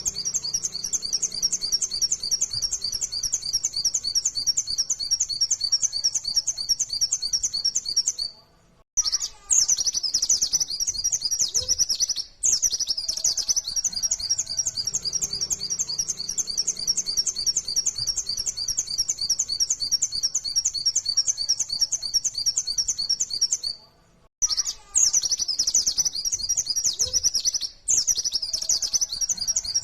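White-eye (pleci, Zosterops) singing a fast, continuous, high-pitched chattering song that breaks off briefly twice.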